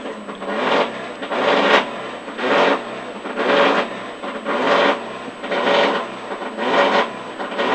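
Rally car engine heard from inside the cabin, revved in a steady rhythm of rasping surges about once a second while the car is held on the start line during the countdown.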